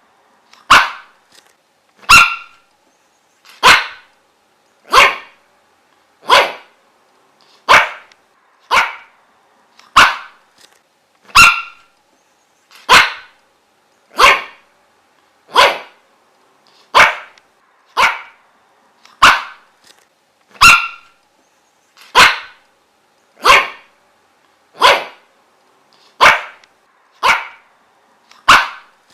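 A dog barking single short barks at a steady, even pace of about three barks every four seconds.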